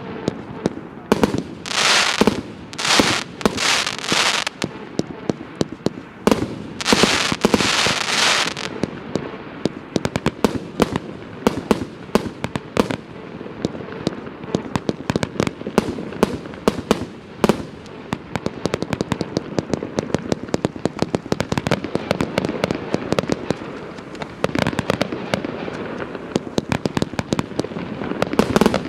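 Favorit Pyro Group FP-B371 multi-calibre firework battery firing: a rapid, continuous series of sharp launch pops and bangs, with four longer hissing bursts in the first third.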